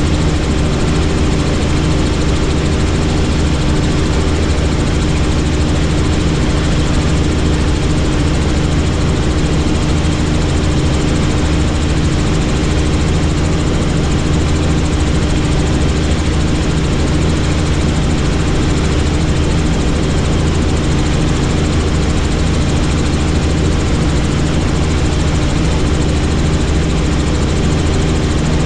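Helicopter in flight: steady, loud rotor and engine noise with a constant low hum, unchanging throughout.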